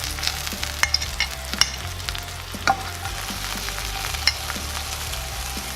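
Snipe frying in avocado oil in a pan at medium-high heat: a steady sizzle with sharp pops and crackles scattered through it.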